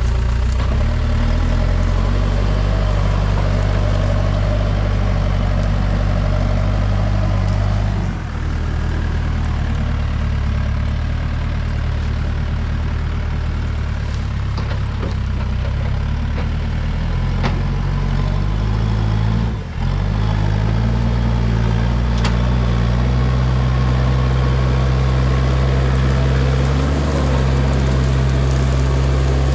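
Backhoe's diesel engine running steadily under work. Its note dips and shifts briefly about a third of the way in and again about two-thirds in, then holds at a slightly higher pitch.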